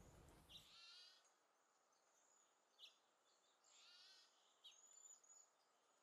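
Near silence with faint birds chirping: a short warbling phrase about a second in and another about four seconds in, with a few single chirps between.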